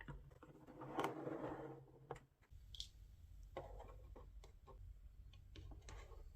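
Faint clicks and taps of small plastic toy pieces being handled, with a brief rustle about a second in.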